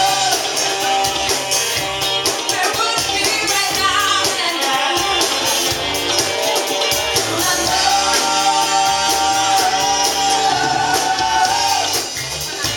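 A rock band playing, with a lead voice singing long, wavering lines over bass guitar and drums.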